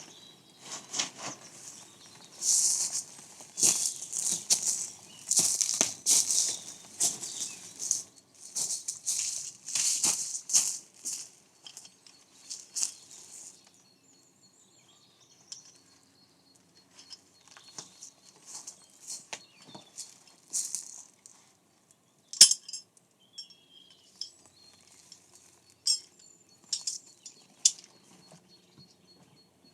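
Rustling and handling noises in quick irregular bursts for about the first half, thinning to scattered clicks and brief rustles, with one sharp snap about two-thirds of the way through.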